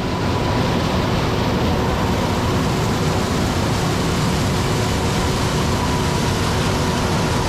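Steady mechanical running noise with a constant high whine over it, even in level throughout.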